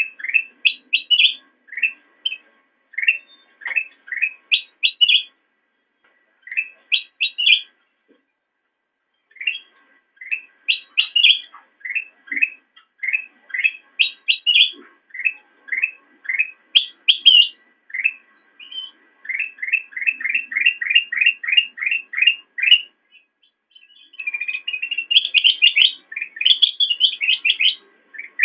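Kutilang emas bulbul singing: phrases of short, quick chirping notes, broken by two short pauses early on, then a fast, even run of chirps and a denser, more tangled warble near the end.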